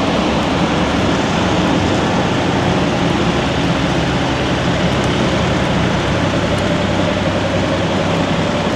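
Steady loud rush of wind and rain, with a low hum underneath and a faint tone that creeps up in pitch in the second half.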